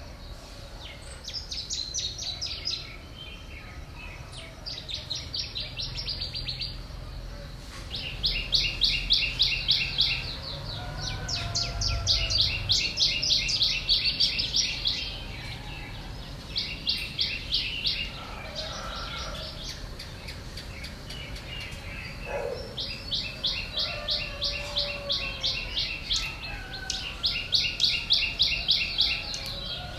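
Small birds chirping in rapid trains of short, high repeated notes that come back every few seconds, over a low steady rumble.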